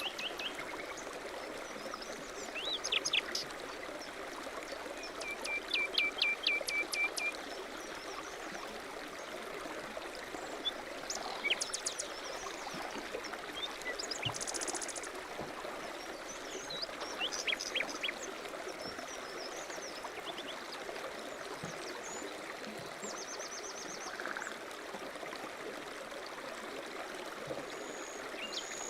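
Steady rush of a flowing stream, with small birds chirping and trilling now and then over it.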